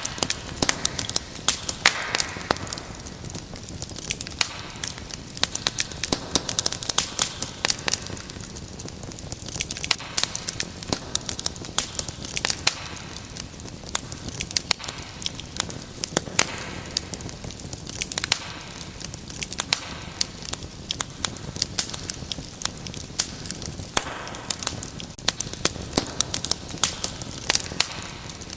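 Fireplace fire crackling, with irregular sharp pops and snaps over a steady low hiss.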